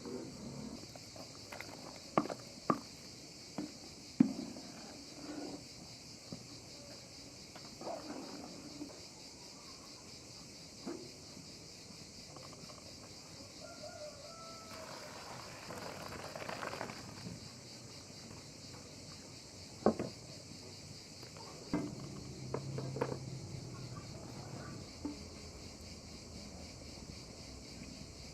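A steady, high-pitched chorus of insects chirring, with scattered sharp knocks and clicks over it.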